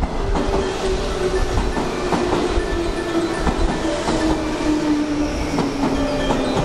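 JR West 201 series electric train running into the platform: a steady whine from its running gear slides slowly down in pitch as it slows. Wheels click over rail joints under a low rumble.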